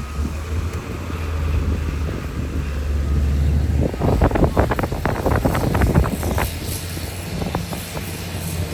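The diesel engine of heavy earthmoving machinery runs steadily. About four seconds in comes a couple of seconds of dense clattering and knocking, metal and material rattling, before the engine settles back with only a few scattered clicks.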